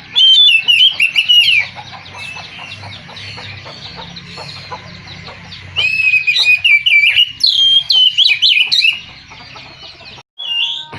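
Oriental magpie-robin (kacer) singing: two loud bursts of rapid, varied whistled notes, one at the start and one about six seconds in, with softer twittering between. It cuts off abruptly near the end.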